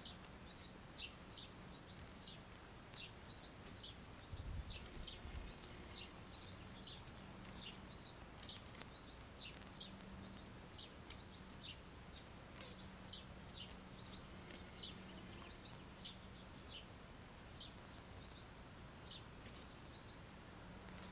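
A bird chirping over and over, short high falling notes about two or three a second, faint against outdoor background noise. A brief low rumble comes about four and a half seconds in.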